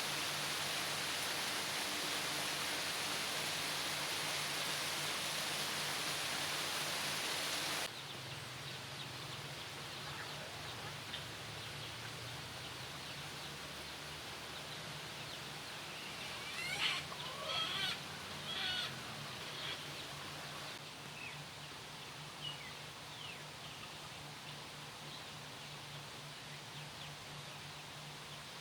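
Steady rush of running water for about eight seconds, then an abrupt cut to quieter outdoor ambience. About seventeen seconds in, a bird gives a short burst of calls, with a few fainter chirps after.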